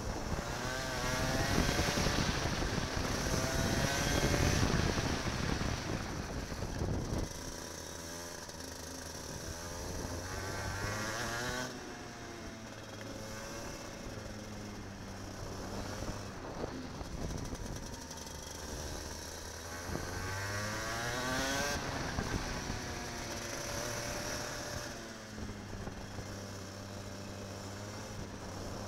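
Kart engine heard from onboard, accelerating and easing off: its pitch climbs several times and drops back in between, over steady wind and running noise.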